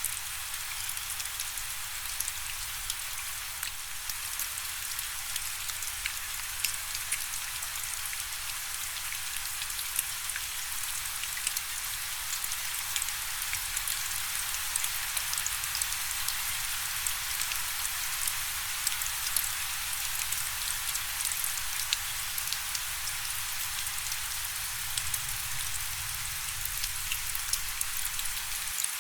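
Steady rainfall: an even hiss of rain with many individual drops ticking sharply on a surface.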